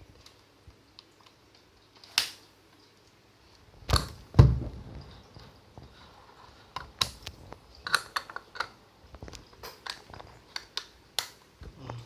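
Handling noise: scattered clicks and light knocks, with a heavy bump a little after four seconds in and a quicker run of clicks in the second half.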